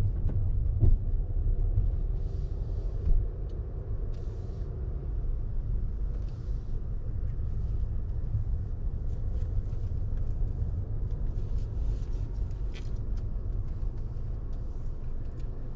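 Steady low rumble of a car running, with scattered faint clicks and brief hisses over it.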